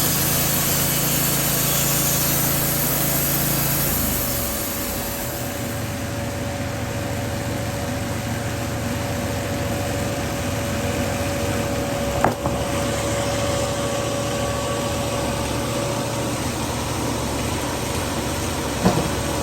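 Wood-Mizer LT15 band sawmill running while cutting a cedar log. About four seconds in, the higher sawing hiss falls away and the machine runs on steadily. Two sharp knocks come later, one near the middle and one near the end.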